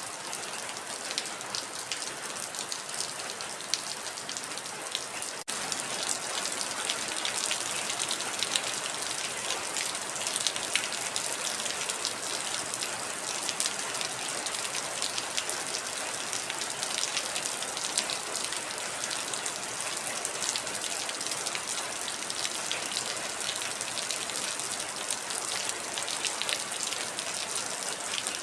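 Heavy rain falling steadily, with many distinct drop hits standing out from the hiss. There is a brief dropout about five seconds in, after which the rain is a little louder.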